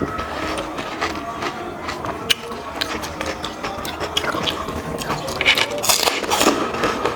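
Panipuri being eaten quickly: crisp hollow puri shells cracking and crunching as they are bitten and chewed, in irregular clicks that are busiest about six seconds in.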